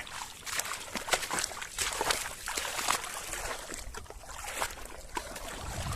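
Shallow water splashing and sloshing in irregular bursts as hands work through it, busiest in the first three seconds.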